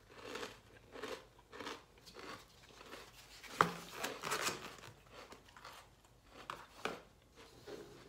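Close-up crunchy chewing of a crisp fortune cookie. A sharp click about three and a half seconds in, the loudest sound, as the lid of a foam takeout container is pressed shut, followed by a few light taps of handling.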